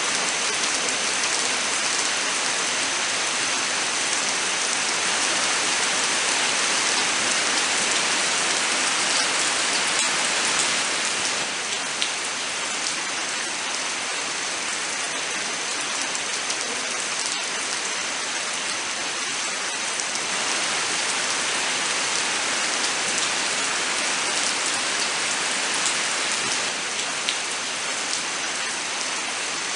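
Steady rain falling in an even hiss, with scattered drop taps; it eases slightly about eleven seconds in.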